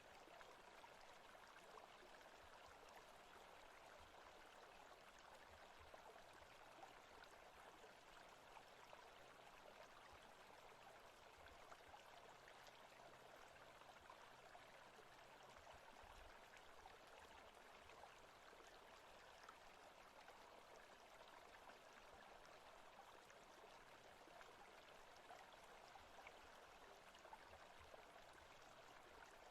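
Faint, steady forest stream ambience: running water with no distinct events.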